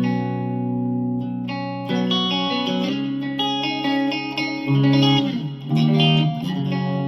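1992 Gibson Les Paul Custom electric guitar played through the clean channel in the middle pickup position, the neck Oil City Scrapyard Dog Plus humbucker coil-split and paired with the bridge humbucker. A ringing chord is followed by several chord changes, each new chord struck about every second or so.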